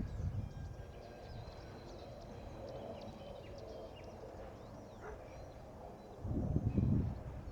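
Birds chirping and singing over a faint low background rumble that dies away in the first second. About six seconds in comes a short, louder burst of low rumble.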